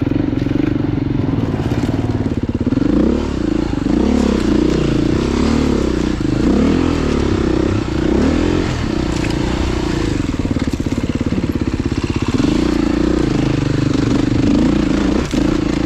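Off-road motorcycle engine running under a rider's throttle, the revs rising and falling in quick blips from about three to nine seconds in, steadier before and after.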